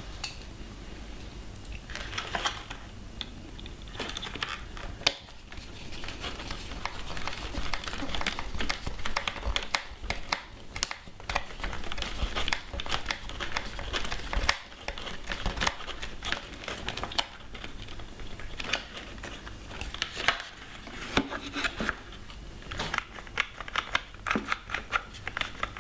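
Small plastic switch parts and wiring being handled and fitted by hand: a busy, continuous run of rustling and scraping with many light clicks.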